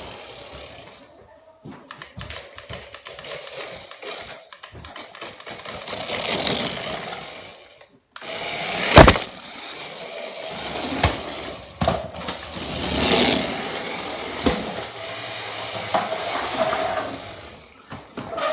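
Electric motor and gears of a 1/10-scale RC rally car whining in several surges of a few seconds each as it is driven, with a sharp loud knock about nine seconds in.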